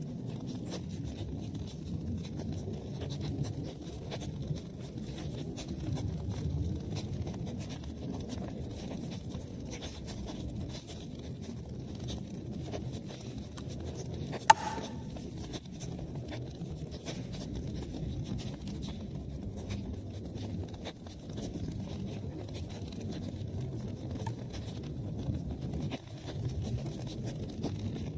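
Wood fire crackling in a fireplace: a steady low rumble of flames with many small crackles, and one loud sharp pop about halfway through.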